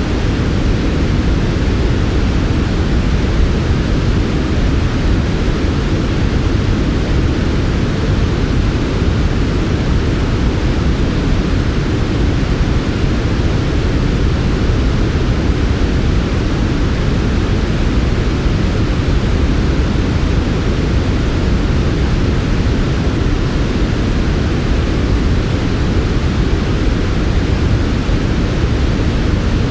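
Steady sleep-track white noise: an even, unbroken rush, deep and soft, strongest in the low range with the highs rolled off.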